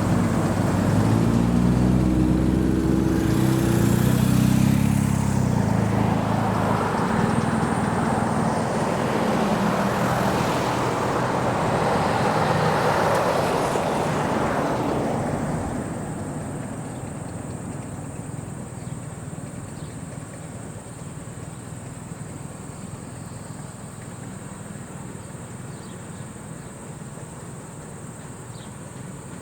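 A road vehicle passing, its engine loud for the first few seconds and then running on as road noise that dies away about halfway through. After that a steady, high insect trill is left.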